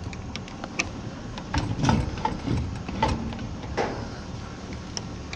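Pickup truck on the move, heard from inside the cab: a steady low engine and road rumble with frequent irregular small clicks and rattles.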